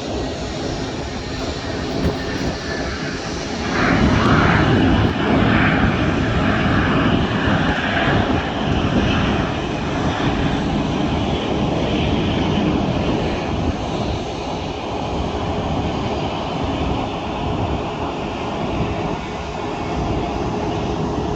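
Airliner's engines running as it passes, a steady rushing that swells about four seconds in and then slowly eases.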